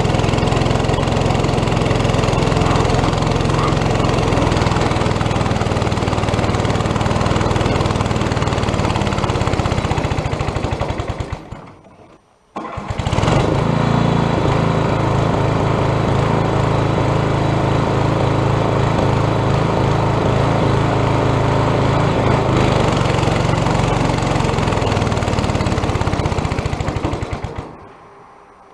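The Quadractor's 8 hp small engine running steadily. The sound falls away to near silence about eleven seconds in, comes back abruptly a second later, and falls away again near the end.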